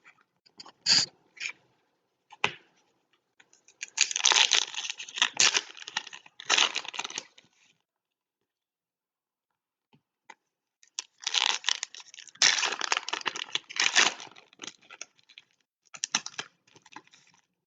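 Foil trading-card pack wrappers being torn open and crinkled, in two long stretches of crackling with short clicks and rustles between.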